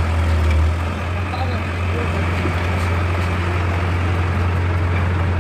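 Diesel tractor engine running steadily with a low, even drone.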